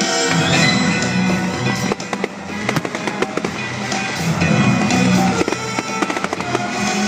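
Fireworks bursting and crackling, many sharp bangs in quick succession, over loud music.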